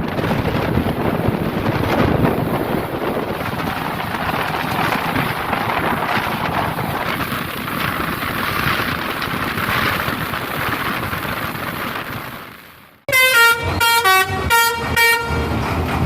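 A steady running-engine rumble mixed with wind noise. About 13 seconds in it cuts off and a horn sounds about five short toots that change pitch.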